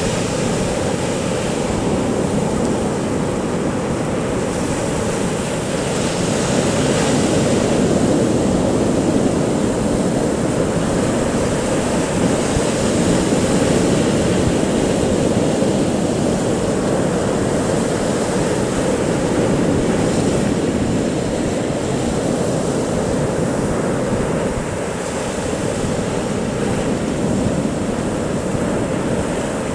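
Big sea waves breaking and washing up on a beach, a steady loud surf that swells and eases, with wind buffeting the microphone.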